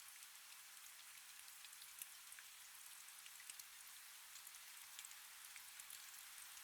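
Faint, steady rain: a soft hiss above which many small drop ticks land at random.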